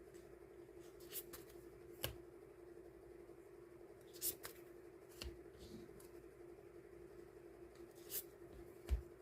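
Scattered light taps and handling sounds of paper die-cut stickers being sorted and packed by hand, about six separate taps, over a steady low hum.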